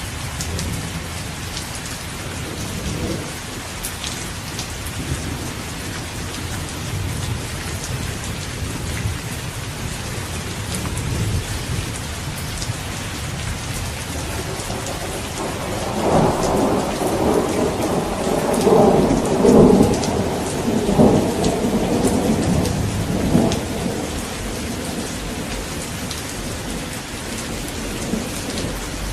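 Steady heavy rain with thunder. A long rolling rumble of thunder swells about halfway through and fades several seconds later.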